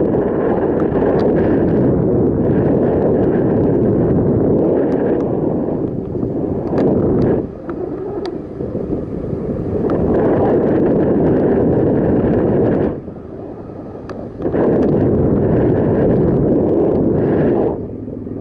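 Wind buffeting the microphone of a camera carried on a moving bicycle, a steady low rumble that eases twice for a second or two.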